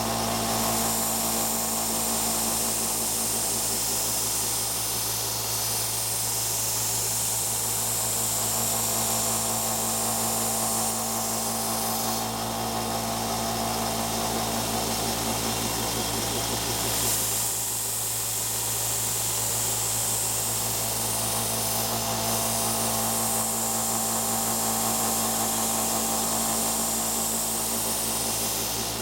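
Wilton belt sander running steadily with a 400-grit belt, a knife edge ground against it in several passes of a few seconds each, the grinding hiss rising and falling over the motor's hum. This is the refining stage of a convex edge, thinning the burr.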